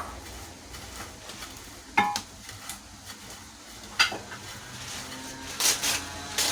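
Hands tossing and rubbing oiled barley seffa grains in a dish: a steady grainy rustle broken by sharp knocks against the dish about two and four seconds in, and a louder clatter near the end.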